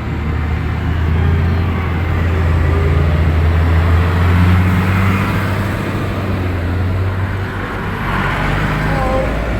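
Tractor engine running steadily with a low hum, growing louder toward the middle and easing off again.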